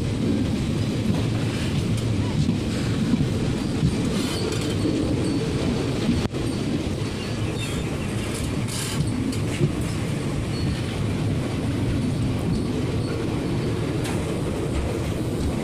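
Passenger train running along the rails, heard from an open carriage door: a steady rumble of wheels and carriage with some rail clatter, as it pulls into a station along the platform. A few brief higher-pitched wheel squeals or scrapes come in about halfway through.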